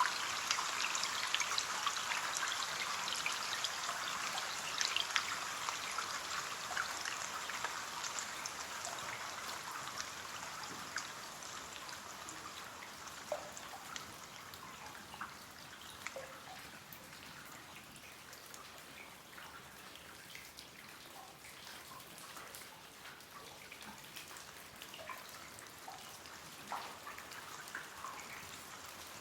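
Rain pattering on a window pane, a dense hiss of drops that fades over the first half and thins to scattered separate drips.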